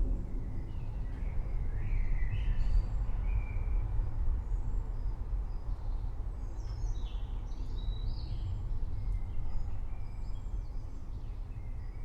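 Low, continuous rumble of distant thunder, with several birds chirping and singing over it, busiest near the start and again about halfway through.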